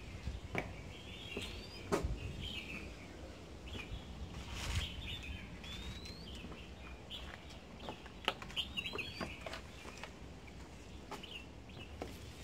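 Wild birds calling: a short rising whistle repeated every two or three seconds among scattered chirps, with occasional sharp knocks and footsteps from someone walking, the loudest about 2 and 8 seconds in.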